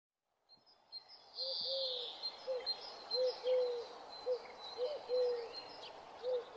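Birds calling: a series of short, low hooting notes repeated at irregular intervals, with faint high chirps and trills above them.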